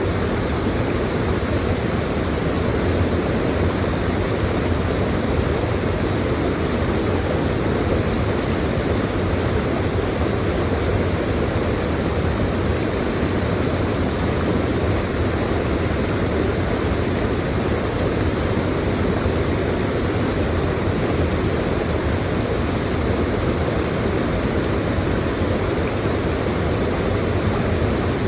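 Waterfall water pouring and splashing close by, a steady, unbroken rush.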